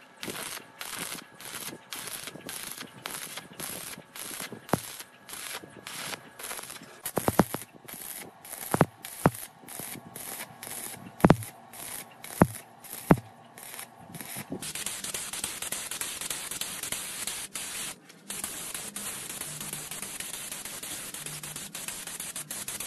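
Repeated hissing strokes, about two a second, with a few sharp knocks among them, then a continuous hiss from about fifteen seconds in.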